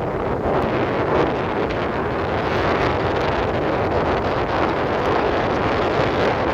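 Steady, loud rushing noise with no clear pitch or rhythm.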